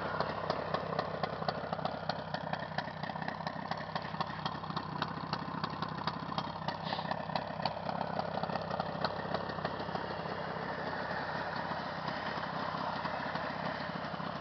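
Jawa 638's two-stroke twin-cylinder engine idling steadily, warmed up after a ten-kilometre run.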